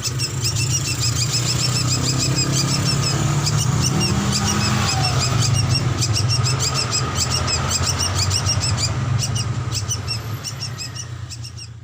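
Drongo (srigunting) calling in rapid, repeated short chirps, over a steady low hum; the sound fades out near the end.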